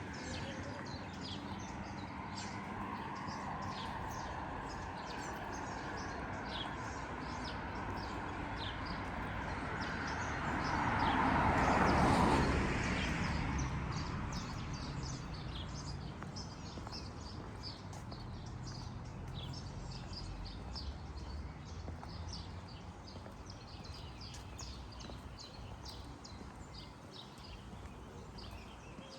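Small birds chirping again and again over a low steady city background. About halfway through, a passing vehicle swells up to the loudest point and fades away.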